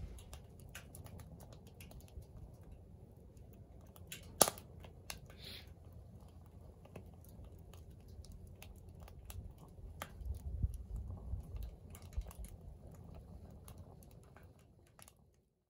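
Firewood burning in a secondary-combustion fire pit, crackling with scattered small ticks and pops and one sharp snap about four seconds in, over a low rumble. The sound fades out near the end.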